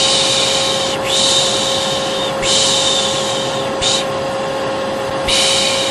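Vacuum cleaner running with a steady drone and hum. Over it, a repeated long 'shhh' shushing comes about five times, each roughly a second long, one of them very short. It is the soothing shush used to settle a baby.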